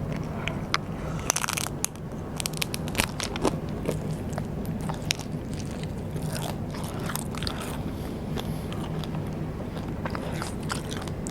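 Close-miked biting and chewing of Vietnamese rice paper snacks, with irregular crisp crunches and cracks.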